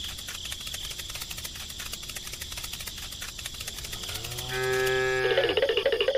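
A cow moos once, about four seconds in: a long low call that dips in pitch and then holds steady. Under it runs a fast, even ticking that stops about five seconds in, and music with rising glides starts near the end.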